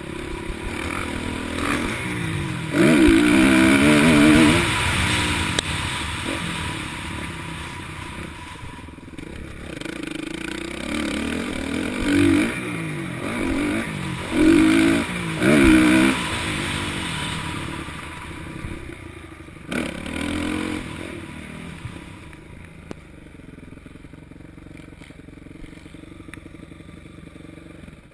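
Motocross bikes racing, their engines revving up and down through the gears. Several loud close passes come in the first two-thirds, and the sound fades away near the end.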